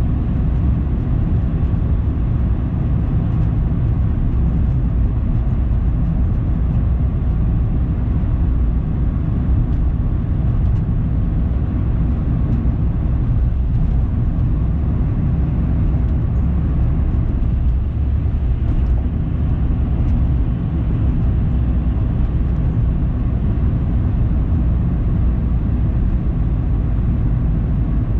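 A car driving: a steady low rumble of engine and tyres on the road, even throughout.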